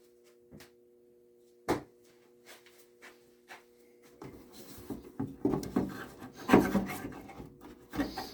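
A sharp click, then from about halfway through, irregular scraping and rubbing of plastic parts as the condensate collection tank is worked loose from its slot inside a Noritz tankless water heater.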